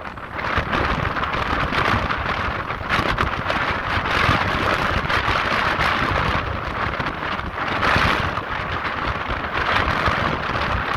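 Ocean waves surging and breaking over coastal rocks, a continuous wash of water that swells several times, with gusts of wind buffeting the microphone.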